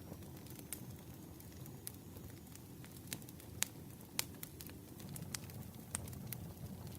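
Campfire burning, a steady low rumble of flames with scattered sharp crackles and pops from the wood, the loudest pops a little past halfway.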